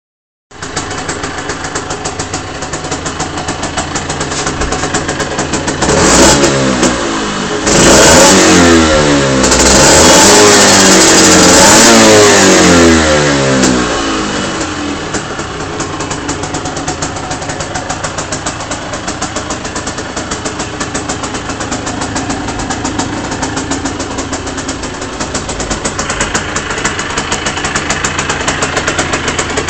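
2002 Aprilia RS 50's 50cc two-stroke single-cylinder engine with an Arrow exhaust, idling with an even pulse. It is revved up and down several times, the longest rev held for a few seconds, then drops back to a steady idle.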